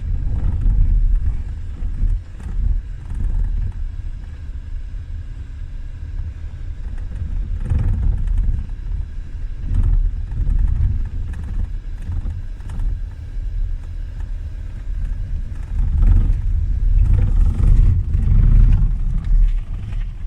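Kia Sorento Prime's steering column knocking: short, sharp knocks at irregular intervals every few seconds, a cluster of them near the end, over a steady low road rumble in the car.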